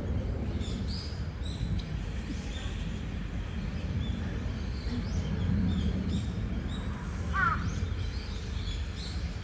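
Small birds chirping in short high notes, scattered throughout, over a steady low background rumble. About seven and a half seconds in, one brief falling call rings out.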